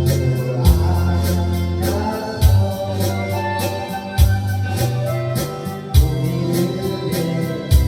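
Music: an organ-sounding electronic keyboard plays a slow trot accompaniment over a steady beat, with a low drum hit about every second and three quarters.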